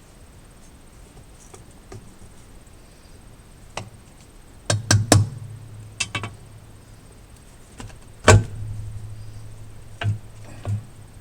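A series of sharp metal knocks and clanks from hand tools working on a bulldozer engine. The loudest comes about eight seconds in, and several leave a low ringing hum behind them.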